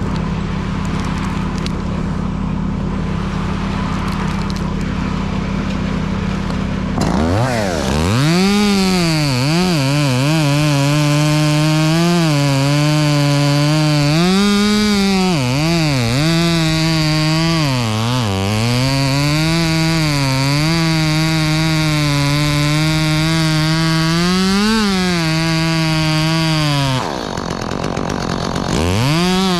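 Steady engine drone for about seven seconds, then a chainsaw revs up and runs at full throttle, its pitch sagging again and again as it bites into wood and recovering between cuts. It eases off briefly near the end and revs up again.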